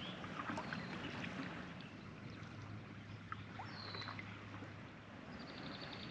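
Canoe paddling: faint water trickling off the paddle and lapping at the hull, with a few faint high chirps, including a short falling whistle about four seconds in and a quick trill near the end.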